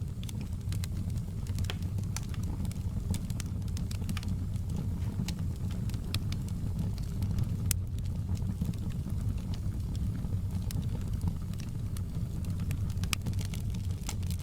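Fire in a fireplace crackling: frequent irregular sharp pops and snaps over a steady low rumble.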